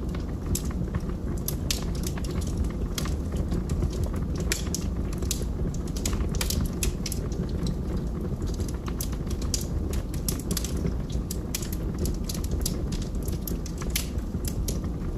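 Wood fire burning in a fireplace, with logs crackling in many irregular sharp pops over a steady low rumble of the flames.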